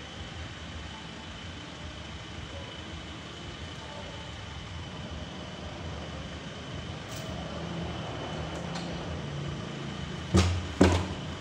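Sawmill machinery running steadily with a faint high whine, then two loud knocks half a second apart near the end.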